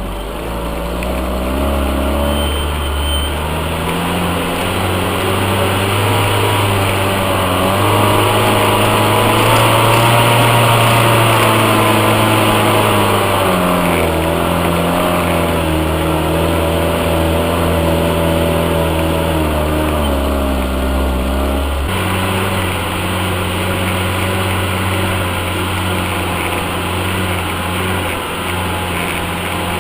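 UAZ off-road vehicle's engine running under load, its pitch slowly climbing and falling back as the throttle changes, then stepping down suddenly about two-thirds of the way through.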